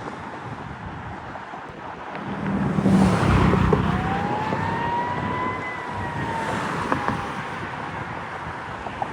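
Fire truck passing by, its engine noise swelling about three seconds in, with a siren wail that climbs and then slowly falls.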